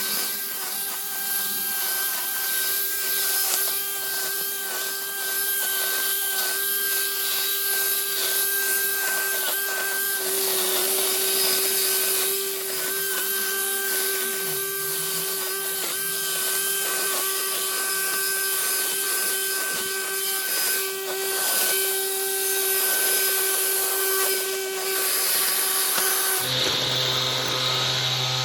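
Angle grinder motor running steadily with a high whine, used as a makeshift lawn mower. Near the end the sound changes abruptly to a different steady machine sound with a low hum.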